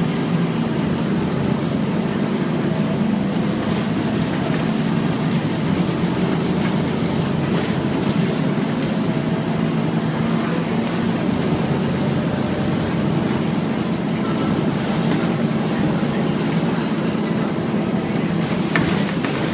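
Scania N230UD Omnicity double-decker bus running steadily, a constant low engine drone mixed with rumble from the body and running gear, with one short click near the end.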